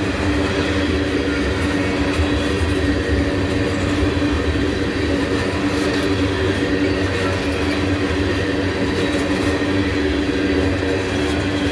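Freight train of tank cars rolling past, its steel wheels running on rail that has been ground, leaving little grooves in it, so the rails growl rather than hum: a steady, loud growl with a set of sustained tones.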